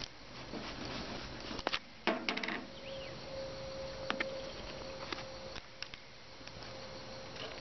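A few light clicks and knocks of containers being handled while the Tannerite is mixed, with a faint steady hum in the middle.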